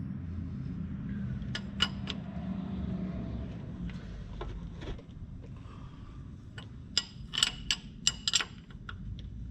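Metal clinks and clicks of a wrench on a transfer case drain or fill plug as it is threaded in and tightened, several sharp ones close together near the end, over a low steady hum.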